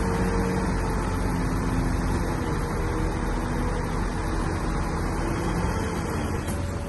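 Shantui bulldozer's diesel engine running steadily under load, its pitch wavering slightly over the noise of the working machine.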